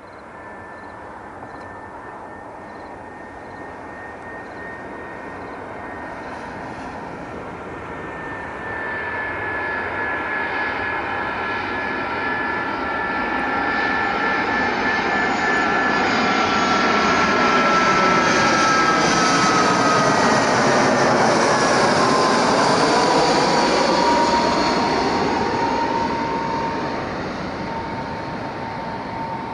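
Airbus A320 jet airliner coming in to land and flying past: the engines' whine and drone grow steadily louder, peak about two-thirds of the way through, and the whine drops in pitch as the aircraft passes, then eases off a little.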